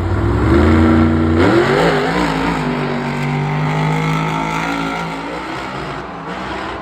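Monster truck engine revving: a low drone whose pitch climbs sharply about a second and a half in, then holds steady and fades near the end.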